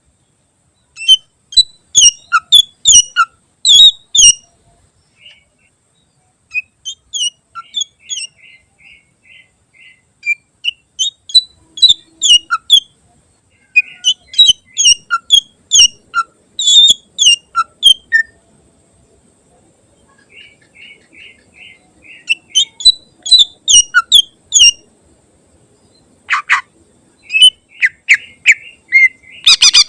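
Cucak ijo (green leafbird) singing in phrases of sharp, rapid high notes with short pauses between, some phrases softer trills. Near the end it breaks into a fast, loud run of notes.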